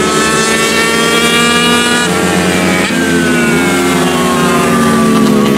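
Several small racing motorcycle engines running at high revs, overlapping. Their notes climb, drop sharply about two and three seconds in as the bikes upshift, then fall steadily as they slow.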